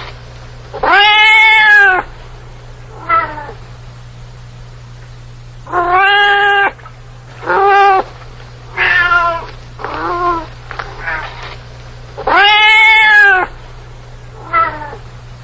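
Domestic cat meowing repeatedly: about nine meows, some long and drawn out, some short, with the longest and loudest about a second in and again near the end. A steady low hum runs underneath.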